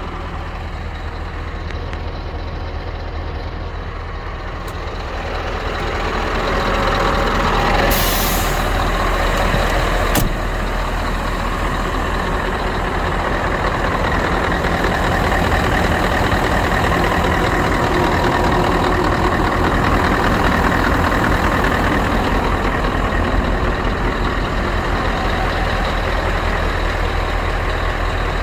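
Scania R560 truck's V8 diesel engine running, growing louder from about five to eight seconds in as it is driven harder. About eight seconds in there is a short hiss of released air, then a sharp click.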